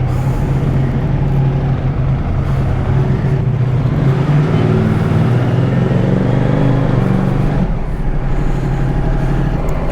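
Ducati Multistrada 1200's V-twin engine running, its pitch rising and falling a few times as the bike is ridden off.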